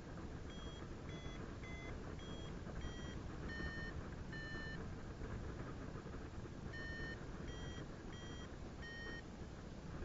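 Paragliding variometer beeping: short pitched beeps at about one and a half a second, with the pitch shifting from beep to beep. The beeps come in two runs with a pause of about two seconds between them, signalling that the glider is climbing in lift, over steady wind noise.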